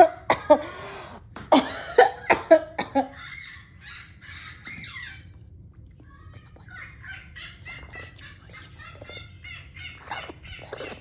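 Pet parrot calling: a few loud, sharp squawks in the first three seconds, then a long run of quieter, rapid high-pitched chattering.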